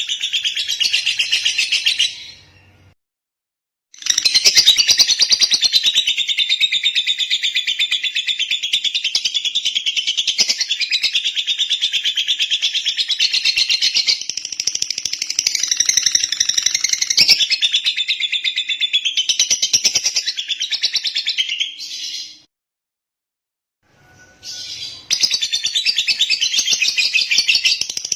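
Lovebird singing a long, rapid, high-pitched chattering song of continuous chirps. It breaks off twice into silence for a second or two, once near the start and again about three quarters of the way through.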